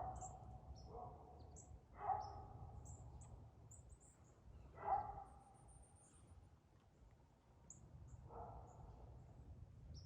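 Songbirds giving many short, high chip calls at irregular intervals. A few louder, lower calls with a clear pitch stand out at about 2 and 5 seconds in, and a faint steady low rumble runs beneath.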